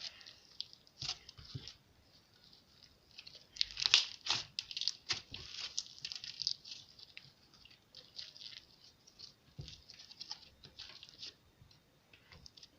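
Slime being squished and stretched by hand: irregular wet crackles and pops of trapped air, busiest and loudest about four to six seconds in, then sparser.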